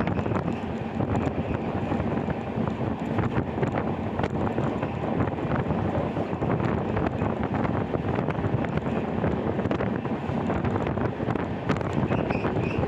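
Wind buffeting the microphone held out beside a moving passenger train, over the steady rumble of the coaches running on the track.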